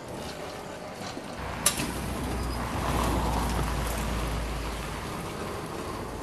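Homemade electric lawn tractor setting off about a second in: a sharp click, then a low electric-motor hum with the crunch and scrape of gravel building up and easing off as it pushes.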